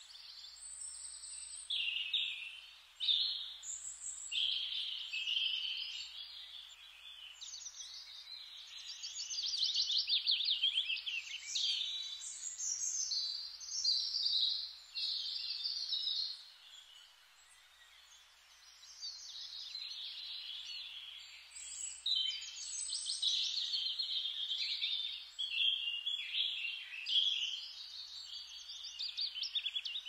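Small songbirds chirping and singing, with fast trills and overlapping calls that pause briefly a little past halfway.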